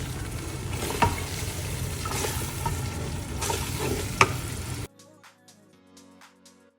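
Blended roasted-pepper mix frying and sizzling in a pot while being stirred, with a couple of sharp spoon knocks. The sizzling cuts off suddenly about five seconds in, leaving faint music.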